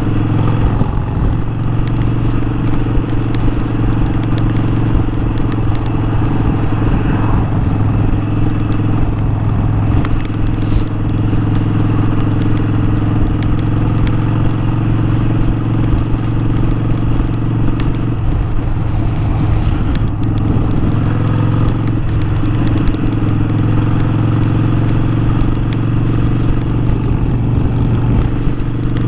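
Harley-Davidson Sportster 1200's V-twin engine running steadily at cruise under a rider's point-of-view microphone, its note shifting briefly about two-thirds of the way through.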